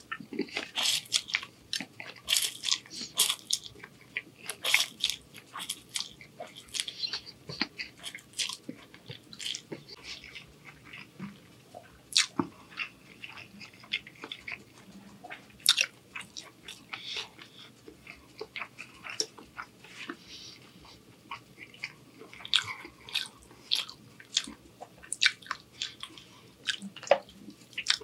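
Close-miked chewing of shrimp angel hair pasta: wet smacks and quick clicks of the mouth, densest in the first few seconds and again near the end.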